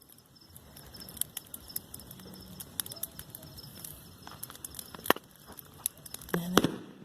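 Wood bonfire crackling, with a steady patter of small pops and a couple of sharper, louder snaps about five seconds in and near the end.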